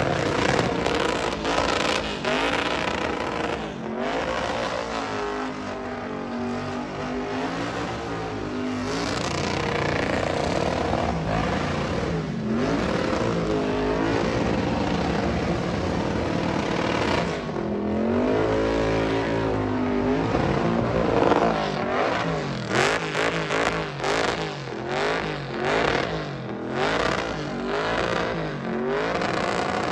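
Burnout car's engine held at high revs while it spins its rear tyres, the revs swinging up and down over a rush of tyre noise. In the last several seconds the throttle is blipped in short, rapid surges.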